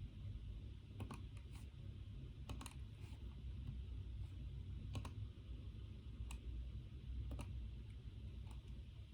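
Scattered single keystrokes on a computer keyboard, about nine irregularly spaced clicks, over a steady low hum.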